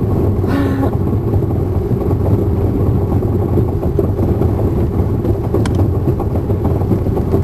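Steady low rumble of a car driving slowly on an icy road, heard from inside the cabin. A single sharp click sounds late on.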